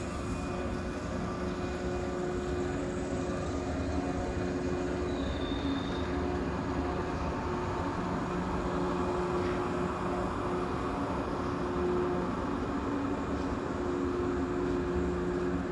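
JR 115 series electric train running out of the station: a continuous rumble of wheels on rail with a steady low hum from its motors and equipment, and a brief high squeal about five seconds in.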